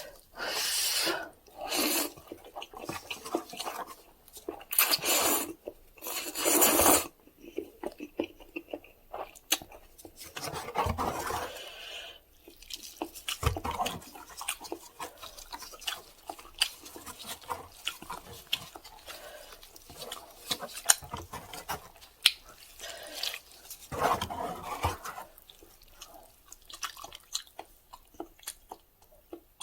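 Instant cup ramen noodles being eaten close to the microphone: several loud slurps in the first seven seconds, then steady chewing with many small wet clicks.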